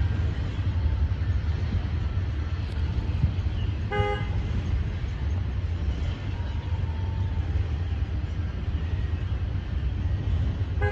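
A vehicle horn gives one short toot about four seconds in, over a steady low rumble of vehicle noise, and another toot begins at the very end.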